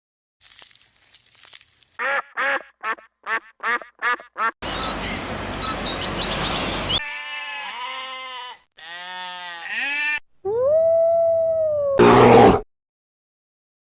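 A string of farm animal calls played one after another: first a run of about eight quick, evenly spaced calls, then a noisy stretch, then two runs of quick calls that each rise and fall in pitch, then one long call that rises and slowly falls. A loud, short, harsh burst comes near the end.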